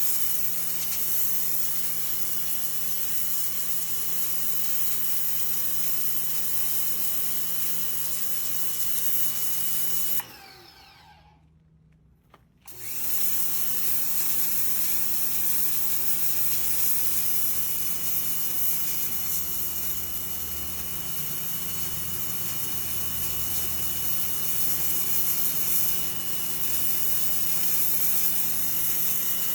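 Electric pressure washer's motor and pump running with a steady hum and a thin high whine. About ten seconds in the sound dies away for a couple of seconds, then comes back suddenly.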